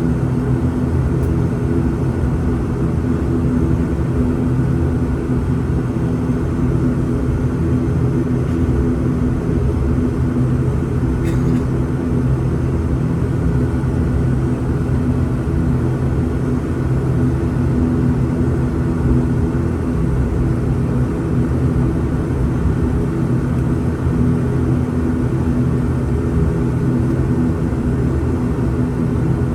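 Steady drone of an ATR 72-600's twin Pratt & Whitney PW127 turboprop engines and propellers, heard inside the cabin, holding an even, unchanging power. The sound of taxiing ahead of the take-off roll.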